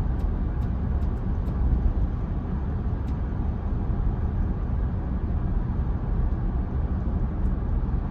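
Steady low road and tyre rumble of a Tesla Model Y, an electric car with no engine sound, cruising at about 50 mph.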